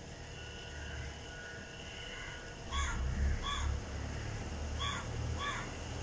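Outdoor bird calls: four short calls in two pairs, starting about three seconds in, over a steady low rumble.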